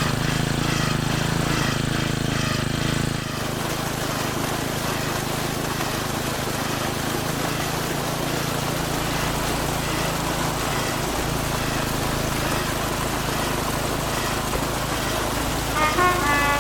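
A small motor running steadily with a constant hum, a little quieter after about three seconds. A short pitched sound comes near the end.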